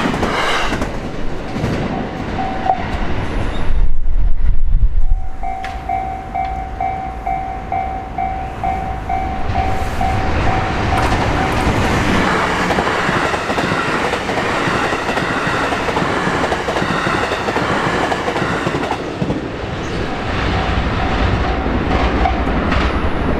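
JR Hanwa Line train passing over a level crossing, its wheels clattering over the rail joints. The crossing's warning bell dings in a steady repeating pattern, and there is a loud low rumble for about a second near the start.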